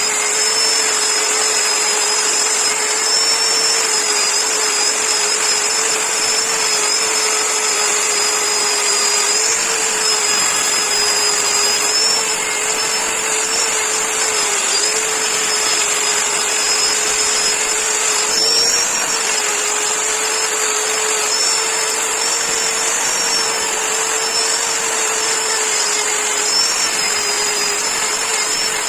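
Electric power tool running steadily, a constant motor hum with a high whine over it.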